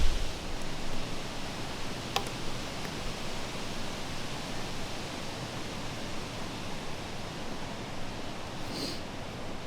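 Steady wind through the trees with leaves rustling. There is a single sharp tick about two seconds in and a brief high chirp near the end.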